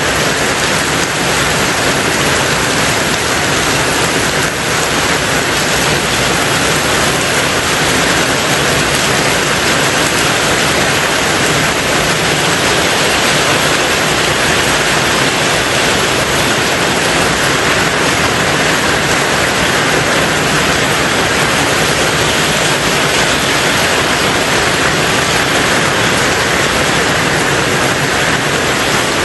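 Rain falling steadily on a tin roof, a dense unbroken hiss that holds the same level throughout.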